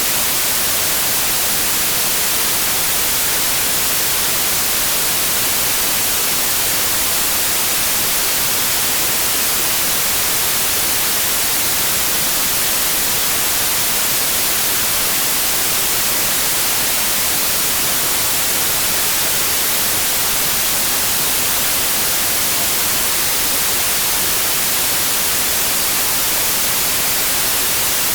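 Steady white noise: an even, unchanging hiss that is strongest in the high end.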